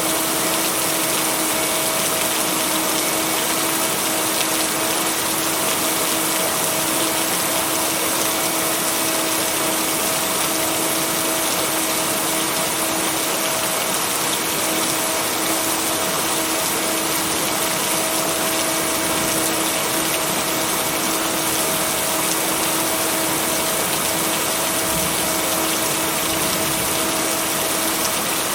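Steady heavy rain, an even unbroken hiss, with a steady hum of one tone and its octave underneath: the binaural-beat tone blended into the rain track. No thunder strikes.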